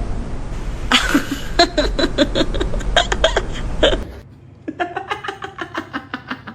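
A person laughing hard in quick repeated bursts, then, after a break, a second run of lighter laughter.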